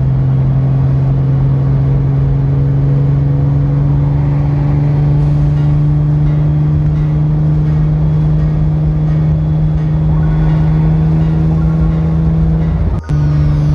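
Nissan Skyline GT-R's S20 twin-cam straight-six running steadily at cruising speed: a loud, even drone whose pitch creeps up slightly. It breaks off for a moment near the end.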